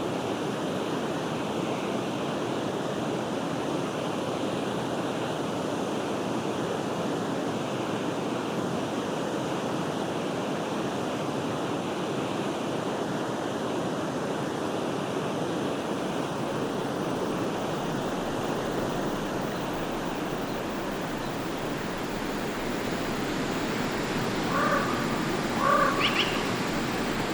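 Forest stream flowing steadily, a constant rush of water. Near the end a bird calls three or four times in short calls.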